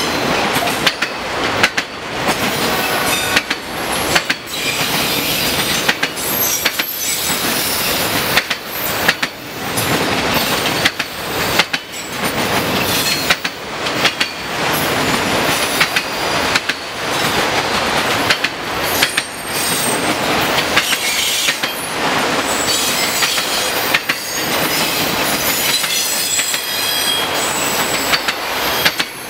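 Loaded autorack freight cars rolling past close by, their steel wheels clattering over rail joints in an uneven run of knocks, with thin high wheel squeals now and then.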